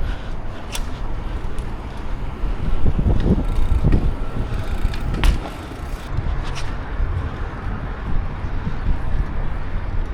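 Riding a bicycle: rumble of wind and road noise on the microphone, swelling in the middle, with a few sharp clicks.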